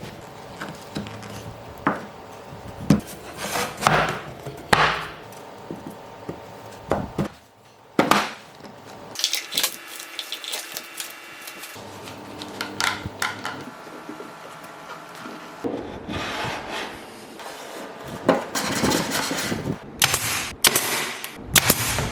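Hand woodworking on boards: a string of separate wooden knocks and clatters, with several short stretches of scraping or rubbing on wood.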